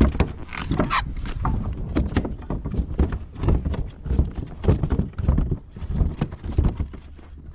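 A largemouth bass flopping and thrashing under a kayak seat, its body slapping against the plastic hull in a rapid, irregular series of thumps and knocks.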